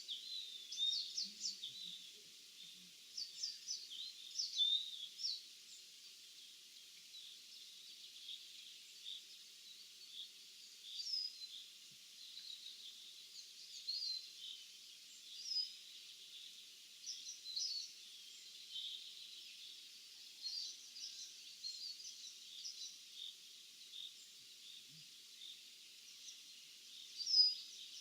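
Several small birds calling and chirping, short high notes scattered all through over a faint steady background hiss, with one louder call near the end.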